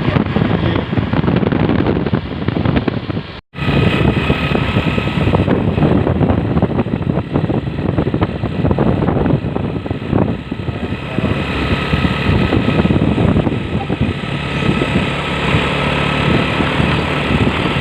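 Truck running on the road, a loud, steady mix of engine and road noise, cut off for an instant about three and a half seconds in.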